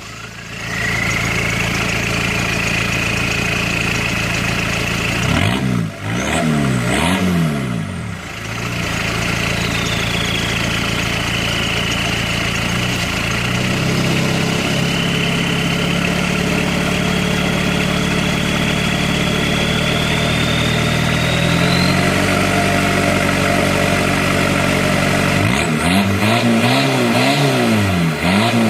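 LuAZ's 1.9 turbodiesel engine running through a straight exhaust of 63 mm KamAZ truck pipe with no muffler at all. It idles steadily, with a few quick blips of the throttle about six seconds in and again near the end, and a thin high whine above the engine note.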